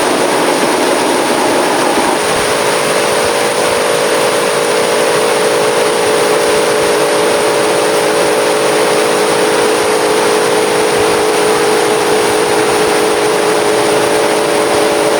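Radio-controlled 1/14-scale Scania truck running: a steady motor-like tone that shifts about two seconds in, over a constant loud hiss.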